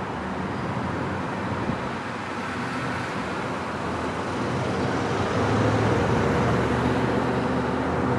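Steady rumble of a freight train's double-stack container cars rolling across a steel girder bridge, mixed with road traffic passing underneath. A road vehicle's engine grows louder about five seconds in as it approaches.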